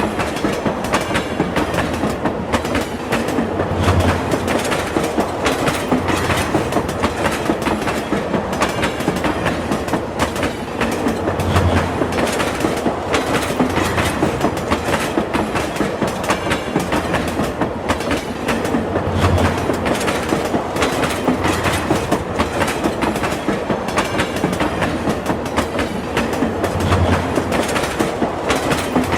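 Train wheels running over the rails with a steady, fast clickety-clack. A low thump swells up about every seven and a half seconds.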